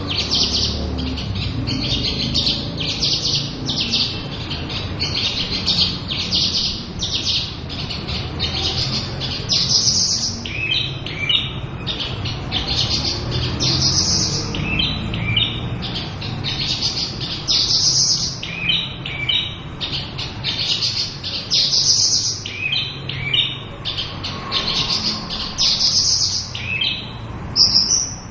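Javan bush lark singing a continuous, fast, varied song of high chirps, trills and rising whistled phrases, the full 'isian' song prized by keepers.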